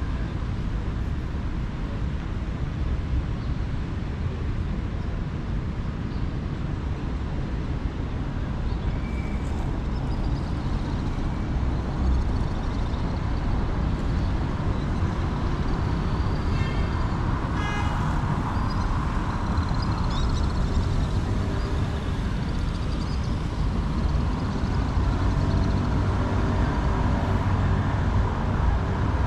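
City street traffic: a steady rumble of passing cars and trucks, with a couple of short higher-pitched sounds a little past the middle.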